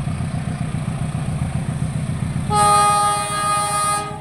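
Diesel locomotive engine running with a low pulsing rumble, and its horn sounding once, a steady blast of about a second and a half starting about two and a half seconds in.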